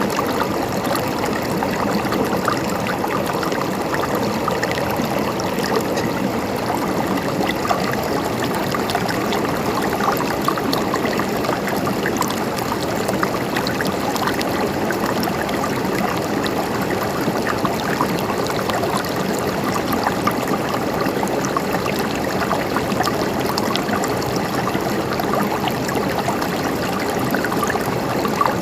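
Gurgling water flowing steadily, with many small splashes and trickles.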